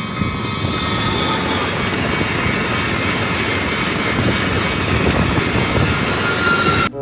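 Passenger train passing close by: a dense rumble of wheels on rails with steady high tones over it, cutting off suddenly near the end.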